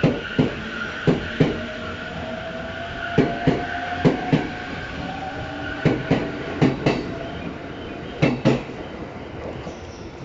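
JR East E257 series 5500-subseries limited express train pulling out of the station past the platform: its wheels click over a rail joint in quick pairs every second or so, over a whine that rises slowly in pitch as it gathers speed. The clicking stops near the end as the last car goes by.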